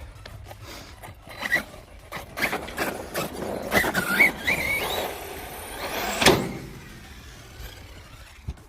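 Electric RC stunt truck's motor whining as it revs up and down, with a few sharp knocks and clatter as the truck lands and bounces, the loudest knock about six seconds in.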